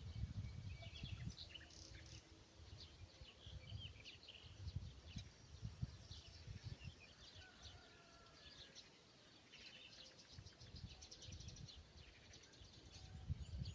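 A chorus of several songbirds chirping and singing faintly, with short calls and a few rapid trills, over a soft, irregular low rumble.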